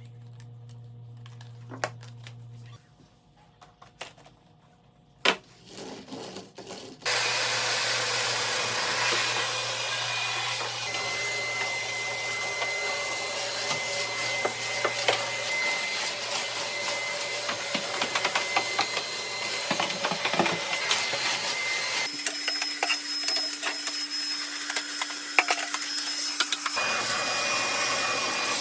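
Milwaukee M18BLCV2 cordless brushless vacuum switched on about seven seconds in after a few knocks and clicks, then running steadily, with fine crackling and rattling of wood dust and chips going up the nozzle. Its tone shifts for a few seconds near the end.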